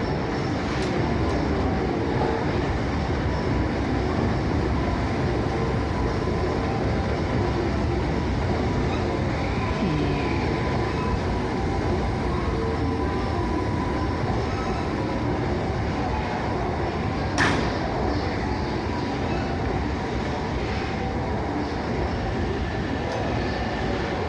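Hankyu electric train rolling slowly into a terminal platform: a steady rumble of wheels and running gear, with one sharp clank about 17 seconds in.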